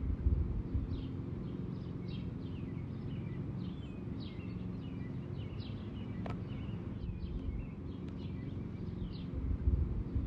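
Songbirds chirping over and over in short falling notes above a steady low hum, with a couple of low thumps and one sharp click.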